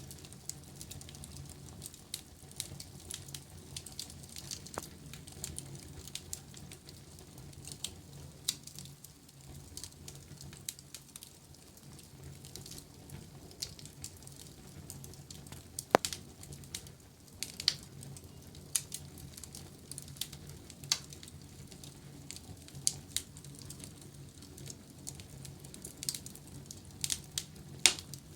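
Wood fire burning in a fireplace, crackling with irregular sharp pops and one louder snap about halfway through, over a low steady hum.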